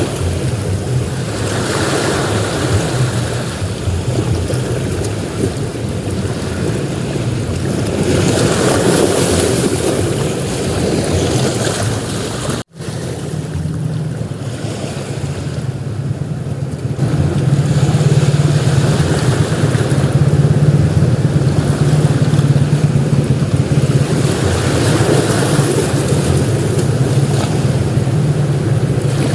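Sea waves breaking and washing up a beach, the surf swelling and easing every several seconds, over a low wind rumble on the microphone. The sound drops out for an instant about halfway through, then comes back heavier.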